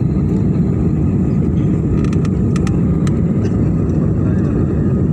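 Jet airliner's engines at takeoff thrust, heard inside the passenger cabin as a loud, steady, deep noise. A few light clicks come about two to three seconds in.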